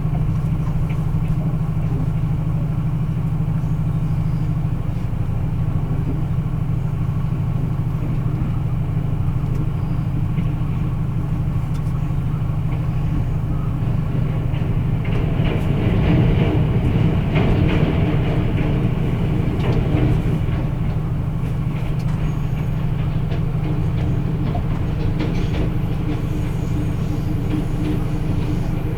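Diesel locomotive of an express passenger train running steadily while the train stands at a station, a constant low engine hum. Around the middle it swells louder for several seconds, then settles back to the steady hum.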